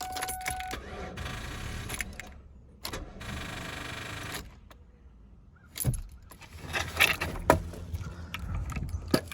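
Car keys jangling with clicks and knocks at a car whose battery is dead. A short steady tone sounds at the very start, a couple of seconds of buzzing come in the middle, and a run of sharp clicks follows in the last few seconds.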